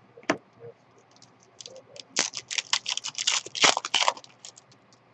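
Crisp rustling and crinkling of trading cards and their wrapper being handled. A few single clicks come first, then a dense run of crackling for about two seconds, starting about two seconds in.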